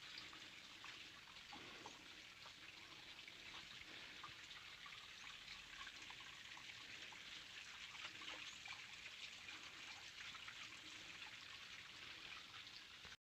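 Near silence with a faint trickle of water and small scattered ticks.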